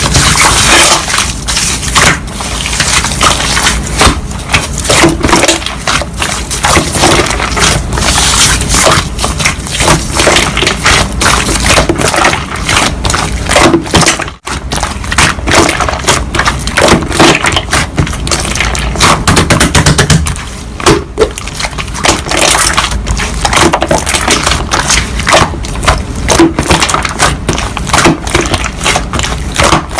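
Slime being squished and pressed by hand, with dense crackling clicks and pops that break off briefly about halfway through.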